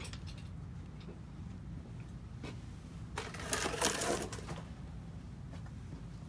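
A rapid mechanical clatter lasting about a second and a half, starting about three seconds in, over a steady low hum.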